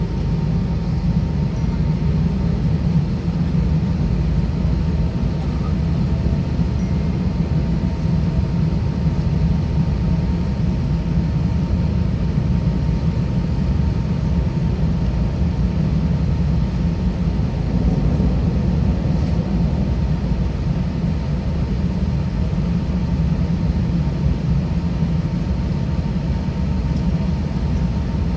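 Airbus A320 cabin noise while taxiing: the IAE V2500-series engines and the rolling of the aircraft make a steady low rumble, with a faint steady high tone over it.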